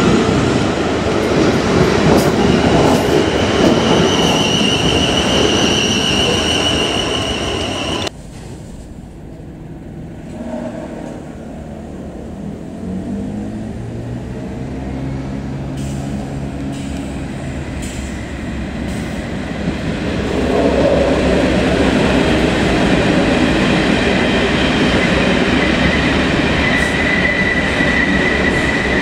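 South West Trains Desiro electric multiple unit passing close by with a high whine over the wheel and rail noise. Then, about eight seconds in, a Class 37 diesel locomotive's engine rises in pitch as it works up. From about twenty seconds the locomotive's noise grows louder as it hauls test coaches past.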